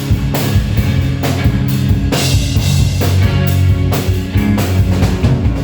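Live rock band playing an instrumental stretch of a song: electric guitar, bass and drum kit with a steady beat of about two hits a second.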